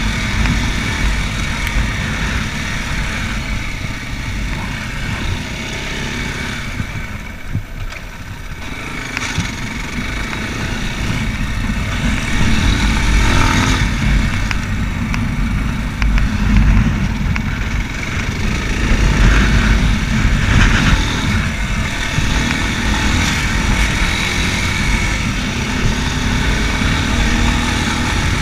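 Racer Panther 300 enduro motorcycle's engine running while riding, easing off about seven seconds in, then pulling harder again.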